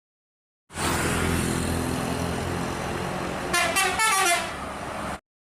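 A truck engine running steadily, with two short horn toots that fall in pitch near the end. The sound starts and cuts off abruptly.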